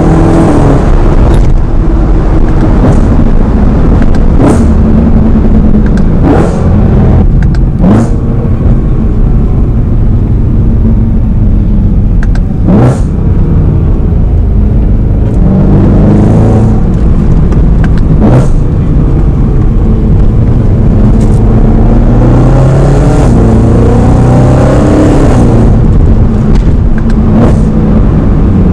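BMW M3's 4.0-litre V8 accelerating hard through the gears: the engine note climbs repeatedly and drops back at each shift, across several pulls, loud throughout, with brief sharp cracks here and there.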